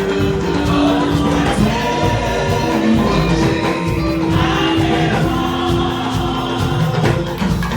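Church choir singing a gospel anthem, voices holding long notes over musical accompaniment.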